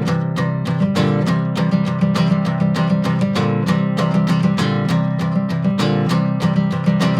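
Acoustic guitar strummed in a steady rhythm, an instrumental passage of a song without vocals.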